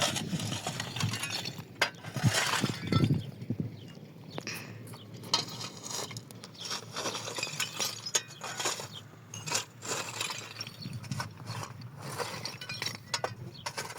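Irregular clinks and knocks of small hard objects, with scattered sharp clicks.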